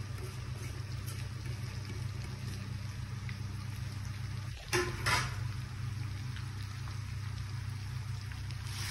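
Pork and freshly added chopped banana flower frying quietly in a wok on a low gas flame, a faint steady sizzle over a low hum. Two short sharp noises come about halfway through.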